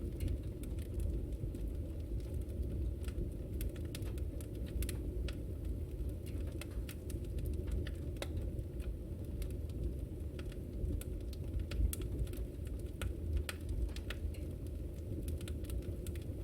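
Wood fire burning in a fireplace, with a steady low rumble under scattered sharp crackles and pops, several a second.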